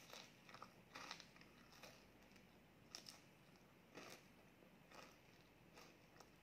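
Chewing on a bite of chocolate-coated wafer ice cream cone, close to the microphone: quiet crunches and mouth sounds about once a second.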